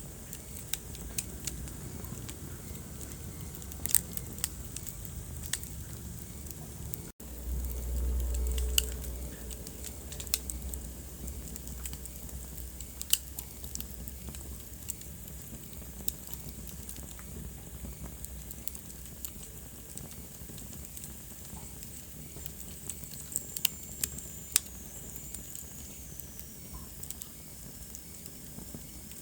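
Wood fire burning in a fireplace: irregular sharp crackles and pops over a steady low rumble of flames. About seven seconds in the sound drops out for an instant, then the low rumble is louder for a couple of seconds.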